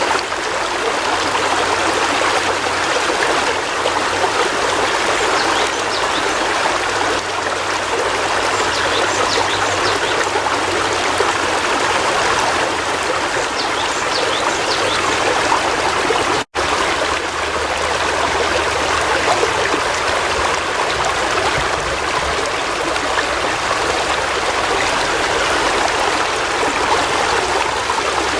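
River water flowing steadily, an even rushing sound, cut by a split-second dropout a little past halfway.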